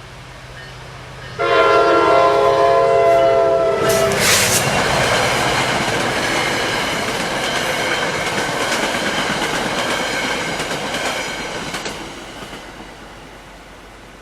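NJ Transit commuter train sounding its horn, a loud steady chord that starts suddenly about a second and a half in and holds for about three seconds. The train then rushes past over the crossing with wheels clacking on the rails, the noise dying away over the last couple of seconds.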